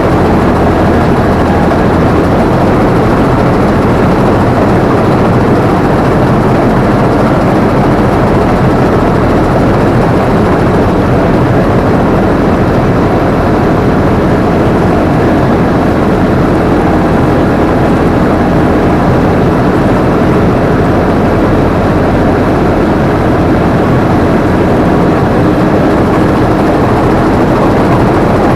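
Combine harvester running steadily, heard from the operator's position: a loud, continuous mechanical drone of engine and machinery with no change in level.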